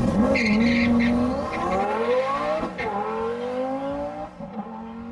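Drag car accelerating hard off the line: its engine pitch climbs steadily, dips briefly at a gear change about three seconds in, then climbs again while the sound fades as the car pulls away. A tyre squeal is mixed in during the first second.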